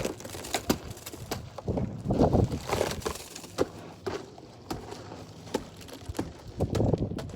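Ice glaze being broken off a vehicle by hand: a run of sharp cracks and crunches, with a few heavier thumps.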